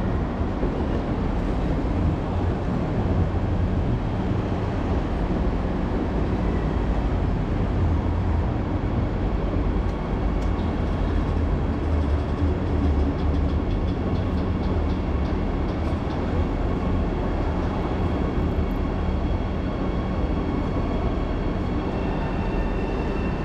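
A train running on the tracks: a steady, loud rumble, with faint high steady tones joining about ten seconds in.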